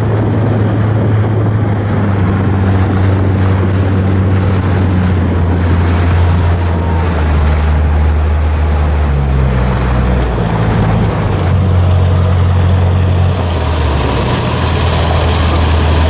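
Coastal cargo ship's diesel machinery running under way, a loud, steady, low-pitched drone whose low tones shift in pitch a few times partway through.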